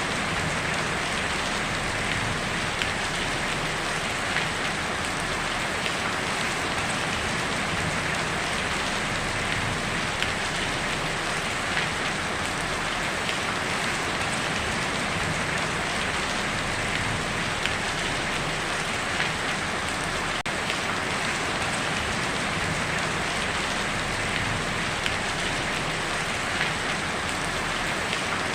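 Heavy rain falling steadily on a tin roof, a dense even patter with occasional louder single drops standing out every few seconds.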